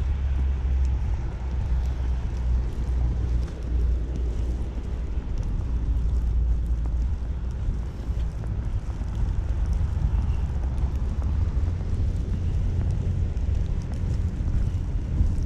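Snowstorm wind buffeting the microphone as a steady low rumble, over a haze of city street noise.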